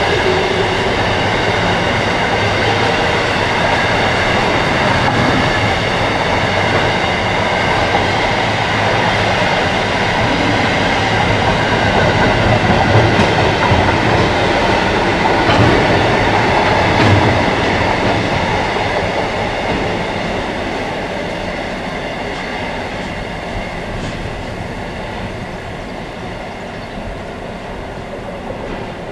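Grain hopper wagons rolling past: a continuous rumble and clatter of steel wheels on the rails with a faint high wheel squeal. It is loudest about halfway through, then fades steadily as the end of the train draws away.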